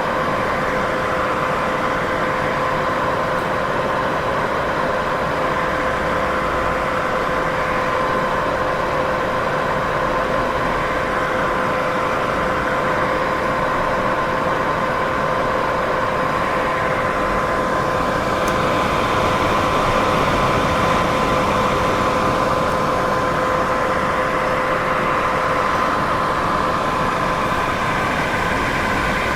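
Continuous white noise: an even hiss with a steady two-pitch hum running through it, holding one level throughout.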